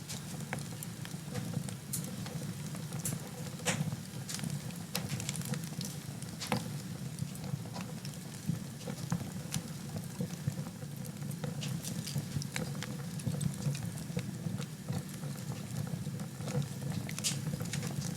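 Wood fire burning in a fireplace: irregular sharp crackles and pops over a steady low rumble of the flames, with a few louder pops about four and six and a half seconds in and near the end.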